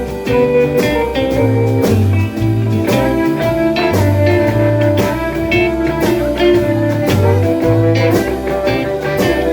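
Blues band playing an instrumental passage without vocals: guitar lines over a steady bass and regular drum hits.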